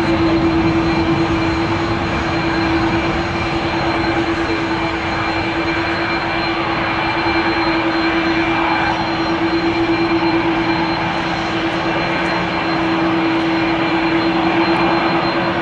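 Airbus A320-214's CFM56-5B turbofan engines running loud and steady, a dense rush with a constant low hum and a thin high whine.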